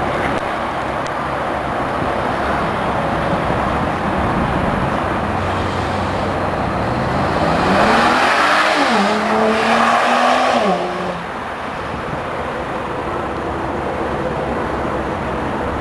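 BMW 135i's turbocharged straight-six accelerating past, its note rising, then dropping sharply at an upshift about nine seconds in, pulling again briefly before the driver lifts off and it fades away. A steady rush of wind and road noise runs underneath.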